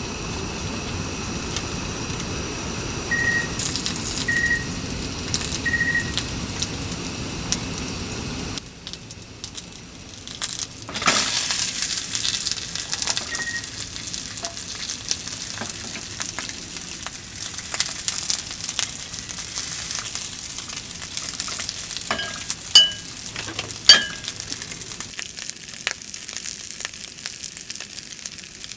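Food sizzling and frying in a pan, starting with a sudden loud hiss about a third of the way in, with stirring and utensil clicks and two sharp ringing clinks against the pan near the end. Before it, a steady hum with three short high beeps.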